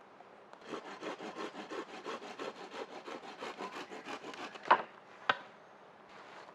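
Wood being worked with quick, even back-and-forth scraping strokes, about four or five a second, for about four seconds. Then come two sharp wooden knocks, the first the loudest sound.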